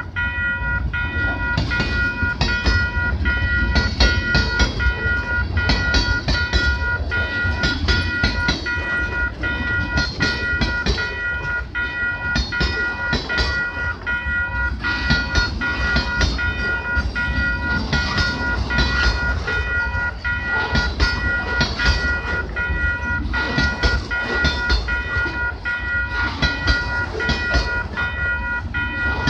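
Freight cars rolling past a level crossing: a steady low rumble with wheels clicking over the rail joints, and the crossing's warning bell ringing as a steady tone over it.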